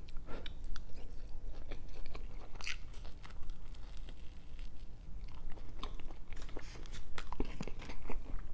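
A person chewing and biting crunchy food close to the microphone, with irregular wet crunches and small clicks of the mouth.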